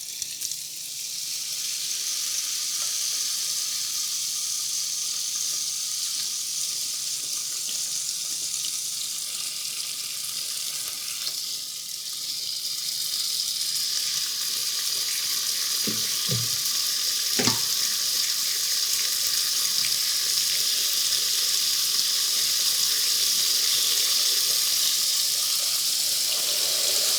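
Marinated chicken sizzling steadily on an electric indoor searing grill, getting a little louder about halfway through.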